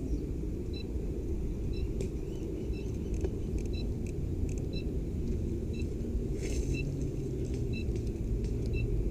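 Electronic airsoft bomb prop beeping, a short high beep about once a second, as its countdown timer runs. Under it is a steady low rumble on the body-worn microphone, with a few sharp clicks and a brief rustle about six and a half seconds in.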